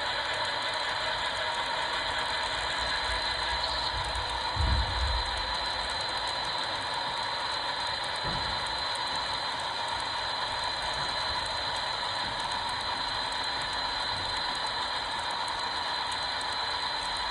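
HO scale model train running on its track: a steady mechanical whir with a constant high-pitched tone from the motor and wheels. A low thump comes about five seconds in, and a smaller one about eight seconds in.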